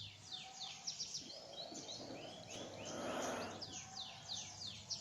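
Birds chirping: a quick run of short, high, falling chirps, with a brief hissing noise about halfway through.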